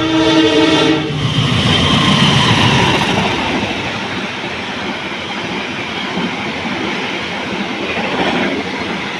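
A train horn sounding, cutting off about a second in, followed by a train running past with a steady rumble and rattle.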